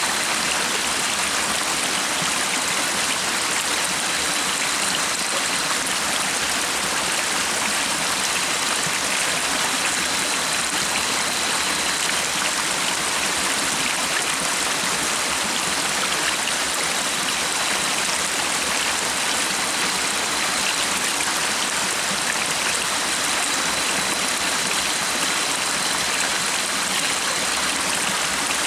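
Stream water flowing, a steady rushing babble that does not change, with a faint thin high tone coming and going.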